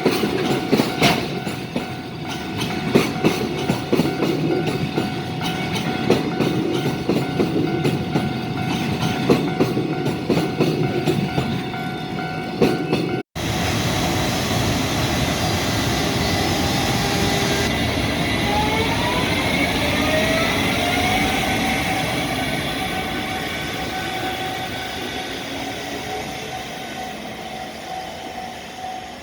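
Freight train passing close by, its wagon wheels clacking over the rail joints in a steady run of knocks. After a cut about 13 s in, a train moves off with a whine from the traction motors rising in pitch, then fades toward the end.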